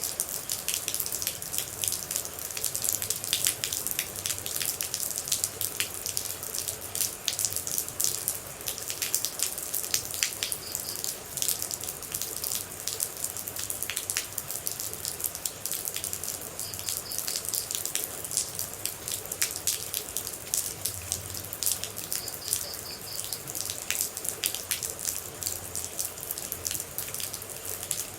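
Rain and water droplets: a dense, irregular patter of many small drops over a steady watery hiss.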